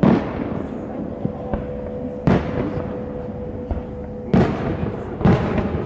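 Fireworks display: aerial shells bursting in four loud booms, spaced one to two seconds apart, with fainter pops between them.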